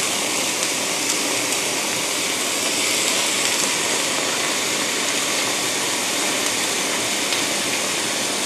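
Black tofu, Chinese cabbage, carrot and bamboo shoot sizzling in a little oil in a hot wok, a steady even hiss.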